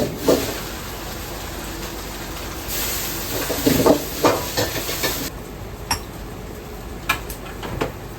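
Ramen shop kitchen at work: scattered clatter and knocks of utensils and pots over a steady background, with a hiss lasting about two and a half seconds in the middle.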